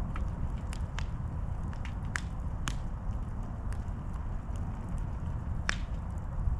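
Campfire crackling and popping, with irregular sharp snaps over a steady low rumble.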